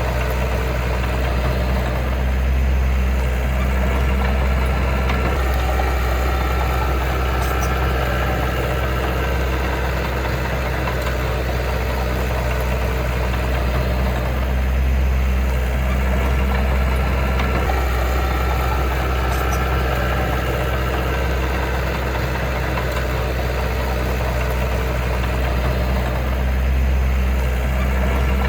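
Heavy diesel engine of earth-moving machinery running steadily, with a deep low hum that swells slightly a few times.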